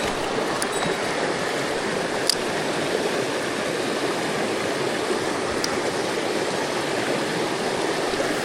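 Mountain stream water rushing steadily over rocks, with a few faint short clicks.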